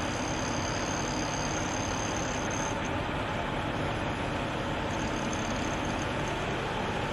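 Steady engine and road noise of a heavy vehicle, such as a truck, with no change in level.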